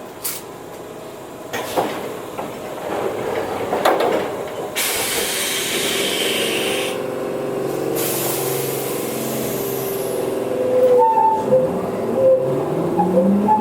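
Electric commuter train standing at a station: a few sharp clicks, then two long hisses of compressed air, and near the end a rising whine.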